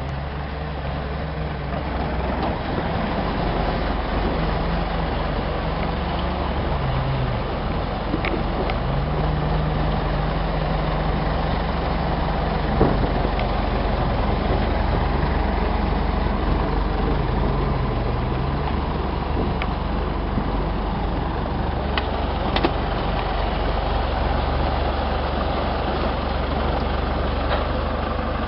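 Engine of the vehicle doing the towing, running steadily at low revs, with a wavering low tone and a few small clicks and knocks.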